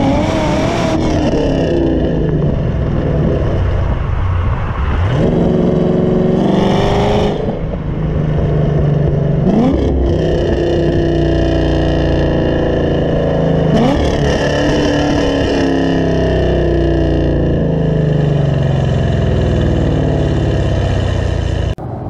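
Supercharged 6.2-litre V8 of a 2014 Chevrolet Camaro ZL1 accelerating hard, its pitch sweeping sharply upward about five, nine and fourteen seconds in, with steady engine running between.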